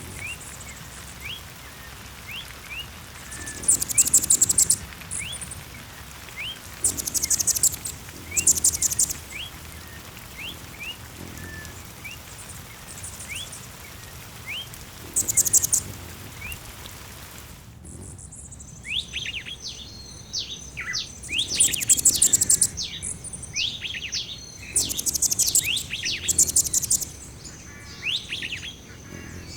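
Birdsong ambience with several birds calling: short high trills and small rising chirps repeating every second or so. About two-thirds of the way through it switches abruptly to a busier chorus of quick falling notes over a steady high, thin tone.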